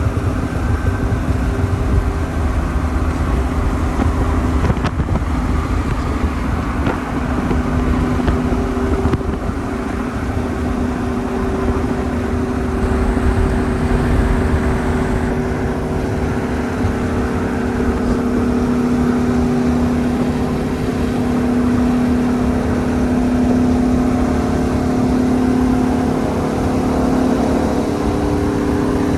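Big-turbo car being driven at a steady pace: the engine hums evenly over a low road rumble, and its pitch drifts slowly up and down without hard revving.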